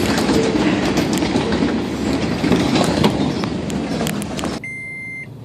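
Freight train of tank cars rolling past, a steady rumble with wheels clacking over the rail joints. Near the end the train sound drops away suddenly and a car's electronic chime beeps.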